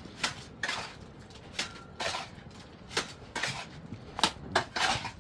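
A series of sharp clinks and knocks, about a dozen at irregular intervals, of hard objects striking one another.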